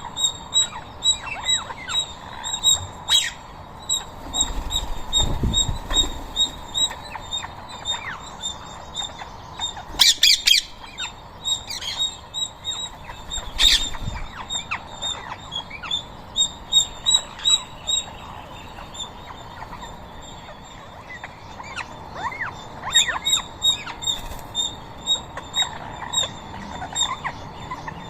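Flock of rose-ringed parakeets squawking and chirping, with a steady run of rapid high chirps and loud harsh screeches about ten and fourteen seconds in.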